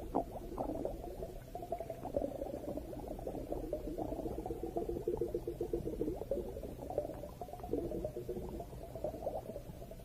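Underwater ambience recorded in the sea: muffled bubbling and crackling, with a faint steady hum in the middle.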